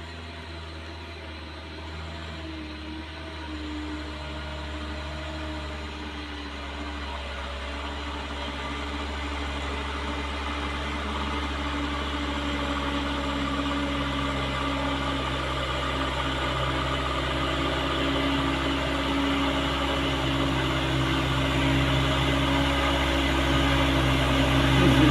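Truck engine running steadily, growing louder throughout.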